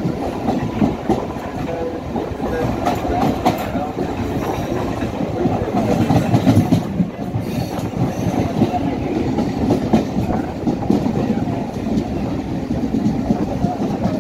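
A train running along the rails, heard from on board at an open window: a steady rumble with wheels clacking irregularly over rail joints.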